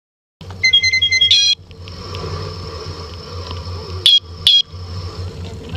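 A vehicle horn plays a quick run of high notes for about a second, then sounds two short blasts half a second apart, with an engine running underneath.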